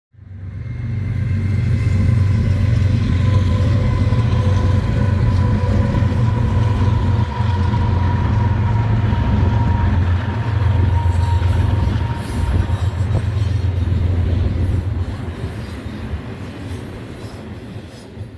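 A train passing with a heavy, steady low rumble and a faint thin whine on top, building over the first couple of seconds and dying away near the end.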